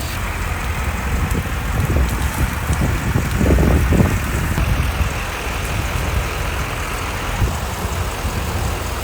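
Diesel pickup truck's engine running at low speed as it slowly pulls a fifth-wheel trailer, a steady low rumble.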